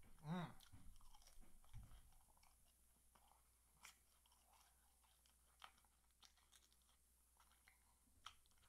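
Faint mouth sounds of a person eating fried chicken: chewing and crunching, with scattered small clicks and smacks. A brief voice-like sound about half a second in is the loudest moment.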